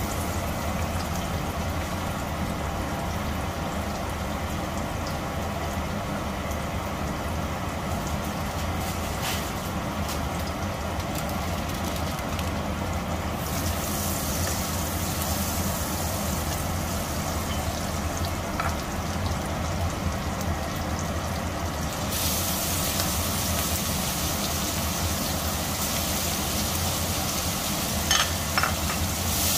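Butter and minced garlic sizzling in a stainless steel wok, over a steady low hum. The sizzle grows louder and hissier in two steps, with raw prawns frying in it by the end, and a few sharp clacks sound near the end.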